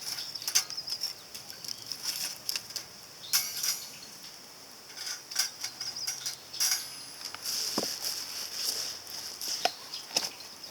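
Small fire crackling in a compact titanium fire grill: irregular sharp pops and crackles over a steady high hiss.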